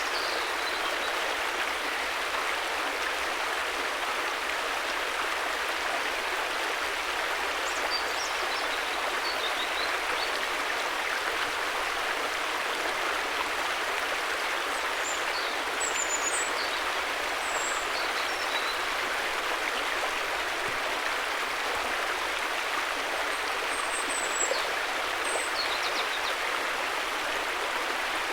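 Steady rushing of flowing river water, an even unbroken sound. A few faint, short high chirps come through at intervals.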